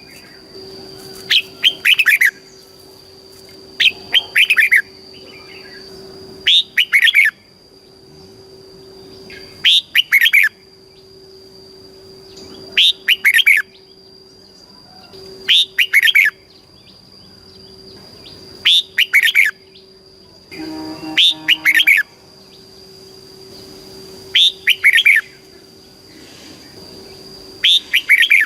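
Red-whiskered bulbul singing short, clear song phrases of quick falling notes, repeated every two to three seconds. A faint steady high-pitched tone runs underneath.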